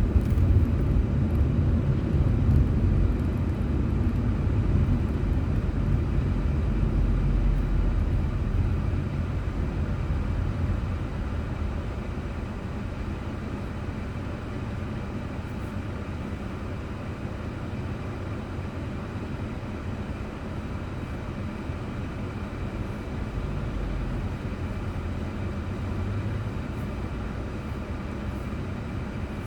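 A car on the road: a steady low rumble of engine and tyre noise, growing quieter about ten seconds in.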